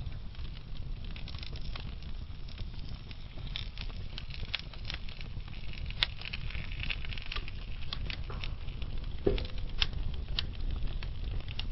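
Wood fire in a fireplace burning slowly, with a steady low rumble and scattered sharp crackles and pops from the burning logs, one louder pop about six seconds in and a dull thump a little after nine seconds.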